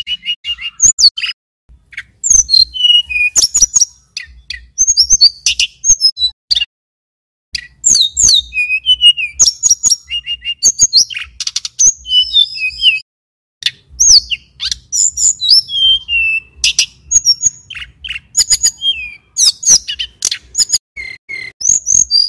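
Male tledekan gunung (sulingan gunung) singing: loud, rapid phrases of high chirps, whistled notes and short trills, broken by a few brief pauses.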